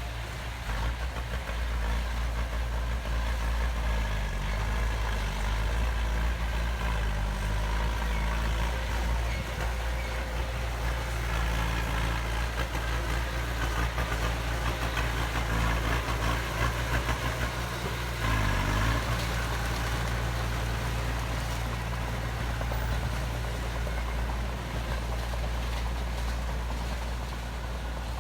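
Heavy diesel engine of earthmoving machinery running steadily, its pitch shifting a little now and then as the load changes.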